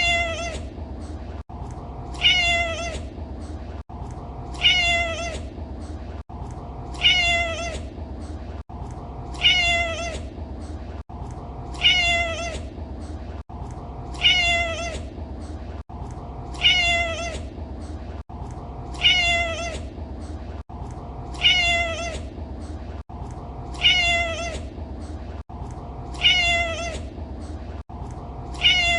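Domestic cat meowing, the same short falling meow repeated identically about every two and a half seconds as a loop, with a brief dropout at each join. A steady low rumble runs underneath.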